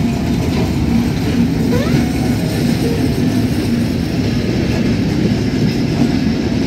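A diesel freight train of oil tank wagons passing close by. The locomotive goes past first, then comes the steady noise of the tank wagons' wheels running on the rails.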